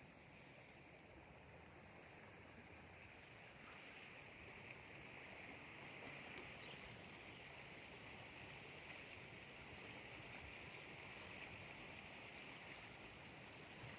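Faint outdoor ambience: a steady insect drone, with faint short high chirps repeating from a few seconds in.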